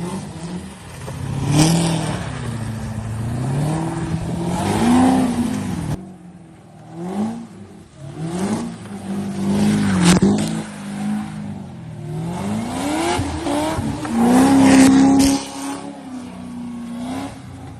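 Car engine revving hard, its pitch climbing and dropping again and again.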